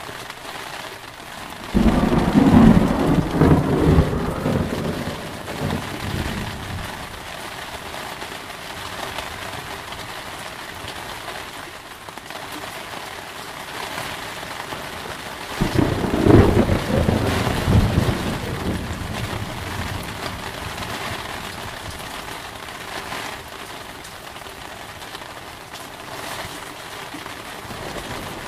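Thunderstorm: steady heavy rain, with two claps of thunder, one about two seconds in and one about halfway through, each breaking suddenly and rumbling away over several seconds.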